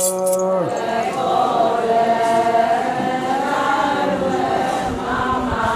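A group of voices chanting together in unison, the answering chorus of an Adi Ponung song. A single lead voice and a shaken rattle stop within the first second, and the chorus carries on.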